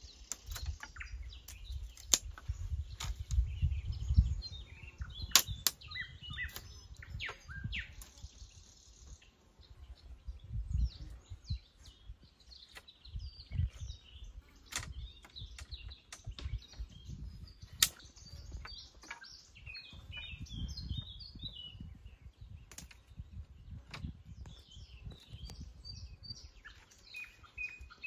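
Small birds chirping and twittering in short bursts, with a dozen or so sharp clicks or snaps scattered through and low thuds, heaviest in the first few seconds.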